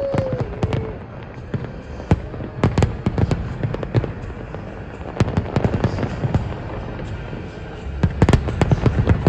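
Fireworks exploding: repeated sharp bangs and crackles coming in clusters, with a whistle falling in pitch that fades out in the first second.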